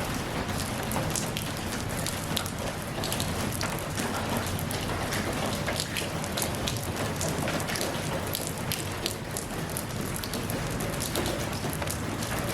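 Steady rainfall, a continuous hiss with many individual drops pattering on a surface.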